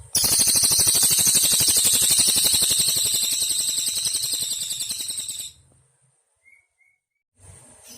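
Cililin bird singing one long, fast, high-pitched trill of rapidly repeated notes for about five seconds, slowly fading, then breaking off into a pause broken only by two faint chirps. Crickets hum again near the end.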